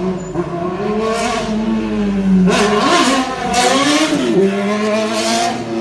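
Motor vehicle engine revving, its pitch climbing and dropping several times as it accelerates and shifts, over steady road and wind noise.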